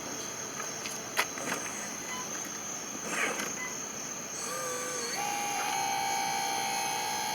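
Electric dump motor of an RC4WD 1/14-scale mining truck starting to whine about four seconds in, then stepping up to a higher steady pitch as the bed tips the load. A sharp click comes about a second in.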